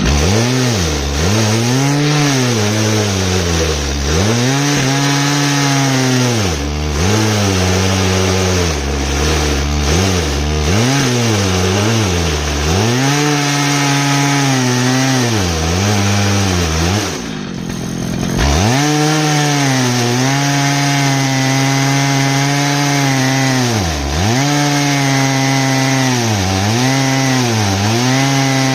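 Stihl MS 881 two-stroke chainsaw running at high revs on an Alaskan mill while ripping an ash log. Its engine pitch sags and recovers again and again, with a deeper drop about 17 seconds in before it picks back up.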